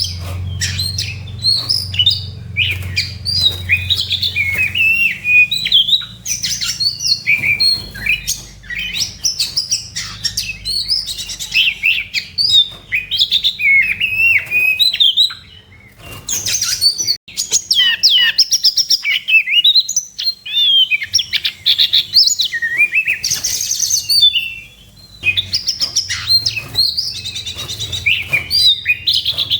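Oriental magpie-robin (kacer) singing a rapid, varied song of whistles and chattering notes, the aggressive 'fighting' song used to provoke rival birds. The song breaks off briefly about halfway through and again a few seconds before the end.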